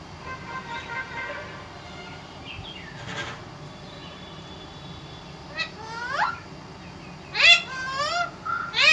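Pet parrot calling: a couple of short rising squawks about six seconds in, then a louder run of chattering calls near the end.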